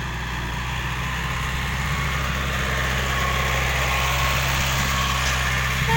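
Six-wheel dump truck's diesel engine running steadily, growing gradually louder.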